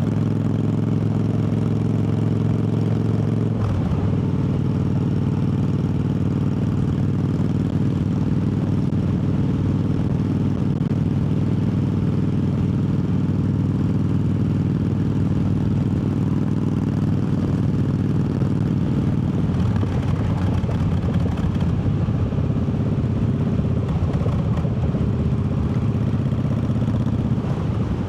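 Triumph Bobber's parallel-twin engine running steadily under way, its note shifting about three and a half seconds in and again near two-thirds of the way through.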